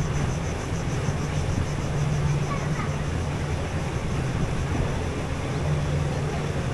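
Small boat's outboard motor running steadily at cruising speed, a continuous low hum with no change in pace.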